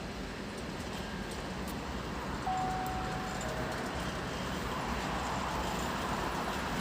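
Freight train of tank wagons hauled by an EU07 electric locomotive rolling through the station. There is a steady rumble of wheels that grows louder in the second half. About two and a half seconds in, a short high tone steps down in pitch and stops a second later.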